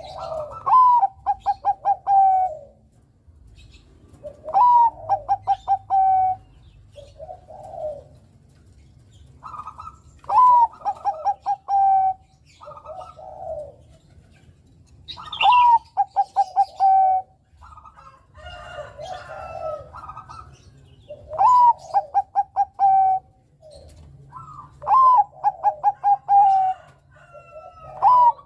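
Bangkok-type perkutut (zebra dove) singing its cooing song. The phrase repeats about every four to five seconds: an upswept opening note, then a quick string of five or six short coos. Softer, lower coos come between the phrases.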